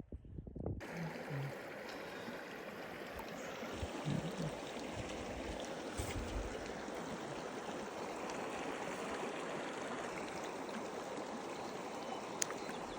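Steady rush of flowing stream water, starting suddenly about a second in.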